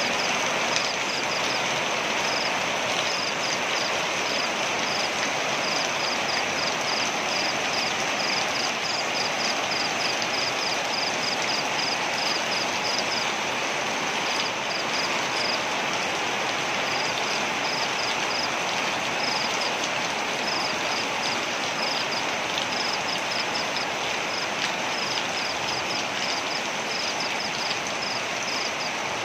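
Waterfall rushing with a steady, even roar of falling water. A rapid, high-pitched chirping runs over it in runs with short gaps.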